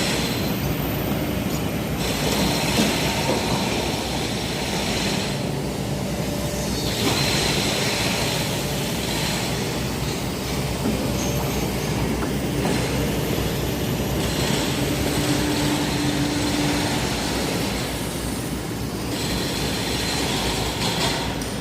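Excavator's diesel engine running steadily while the machine works, with a high hiss that comes and goes every few seconds.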